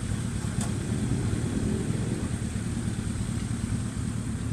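A motorcycle engine idling steadily, a low, even rumble.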